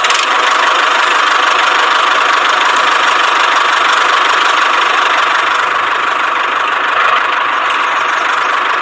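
A small motor running steadily, with a dense, even buzz that does not change in speed.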